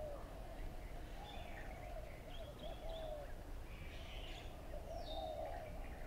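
Birds calling over a steady low outdoor background rumble: short high chirps and lower, sliding calls that repeat throughout.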